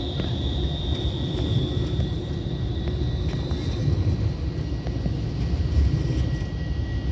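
Tram running past: a low rumble of wheels on rails, with a high steady whine that fades out about four seconds in.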